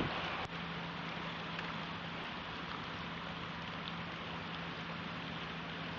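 Small stream in spring flood after heavy rain, its water rushing in a steady wash of noise.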